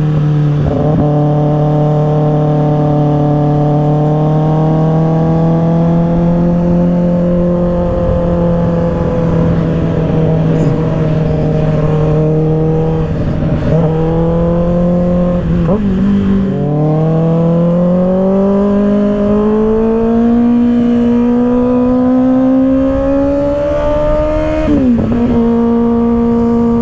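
2024 Kawasaki ZX-6R's inline-four engine through an M4 exhaust, heard from the rider's seat at freeway speed with wind rush. It holds steady revs for about sixteen seconds, dips with a gear change, then climbs steadily under throttle before dipping again near the end and settling at a steady note.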